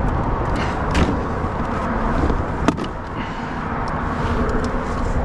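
Steady low rumble of wind on the microphone over a kayak rocking in the swells, with scattered small clicks and knocks from handling, the sharpest about two and a half seconds in.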